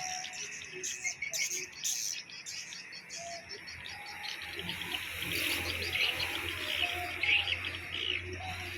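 Swiftlets chirping and twittering, many short overlapping calls over a steady high buzz. A low hum joins about halfway through.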